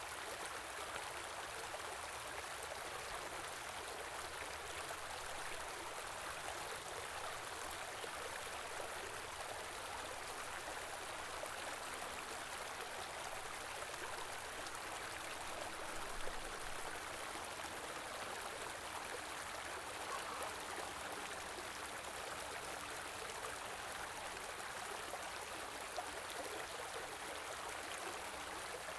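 Small river flowing and gurgling steadily, a continuous rushing of water.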